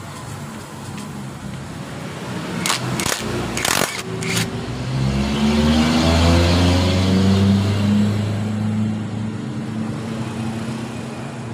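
A motor vehicle engine running and rising in pitch about four seconds in, then holding steady, with a few sharp metallic clicks just before the rise.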